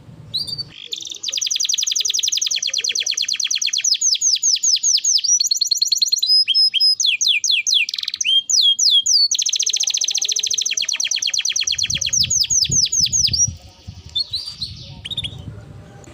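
Domestic canary singing long, fast rolling trills of rapidly repeated high chirps, broken midway by a run of slower, separate notes, then softer chirps near the end.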